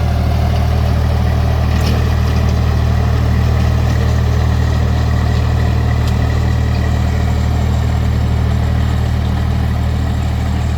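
Swaraj 744 tractor's diesel engine running steadily at an even speed, a deep, constant engine note.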